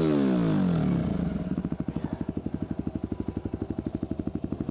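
Enduro motorcycle engine: its revs fall away over the first second or so, then it runs at low revs with an even, rapid beat of firing pulses.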